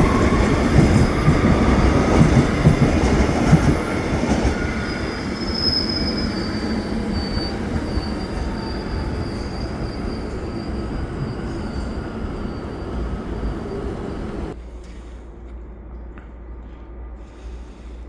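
A train rolling on the rails close by, with loud rumbling that eases off after a few seconds and a high steady wheel squeal from about five seconds in. The noise starts abruptly and drops away suddenly about three quarters of the way through.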